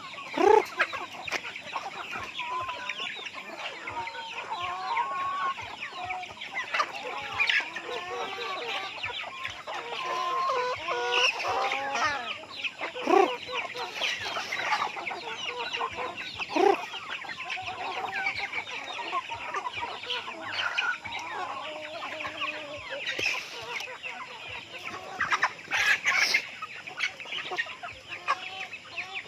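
A flock of free-range native chickens clucking, with a constant chatter of short high calls and a few louder calls standing out.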